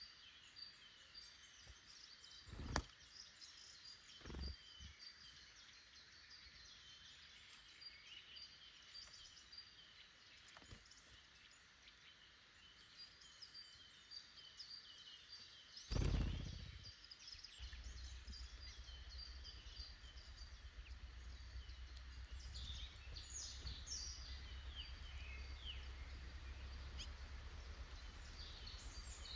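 Small woodland songbirds chirping and singing, several at once, a steady chatter of short high calls. Three dull knocks stand out, the loudest about sixteen seconds in, and a low steady rumble sets in soon after it.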